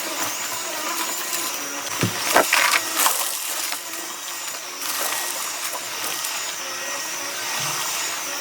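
Vacuum cleaner running steadily with a faint high whine, and a short burst of crackling about two to three seconds in.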